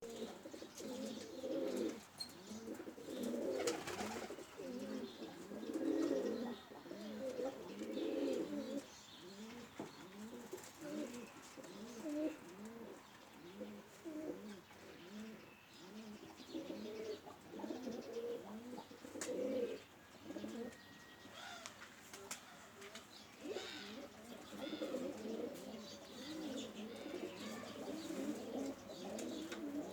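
Several domestic Iranian pigeons cooing, with many overlapping, repeated coos and a few faint higher chirps.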